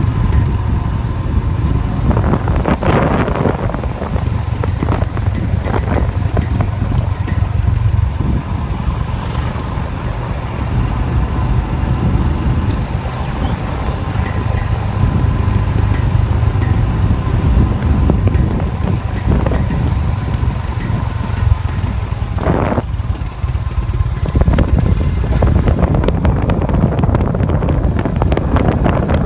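Royal Enfield Himalayan motorcycle on the move, its engine running steadily under heavy wind buffeting on the microphone, with a few brief thumps along the way.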